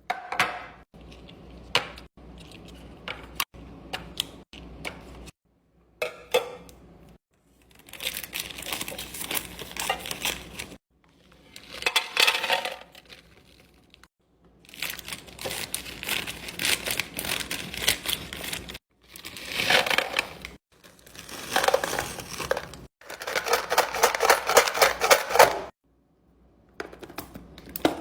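Pantry and fridge restocking sounds: sharp clicks and clatter of hard plastic containers and small items, and packaging crinkling and tearing. They come in short stretches a second or two long, cut off abruptly between edited clips.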